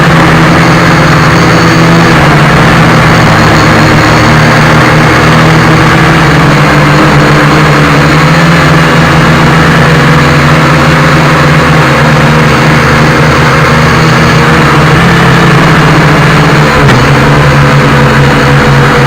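Loud, steady motor noise: a continuous low hum with many overtones over a dense whirring, its pitch holding almost unchanged.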